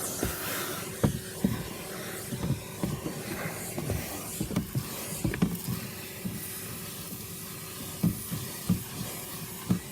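Vacuum cleaner running with a steady hum and hiss, its soft brush nozzle knocking and scraping against the car's interior in irregular short thumps.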